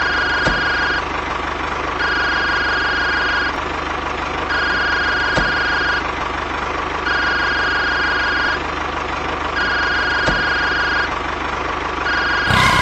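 Long electronic beeps, about one every two and a half seconds, over the steady whirr of a small motor running, with a faint knock about every five seconds.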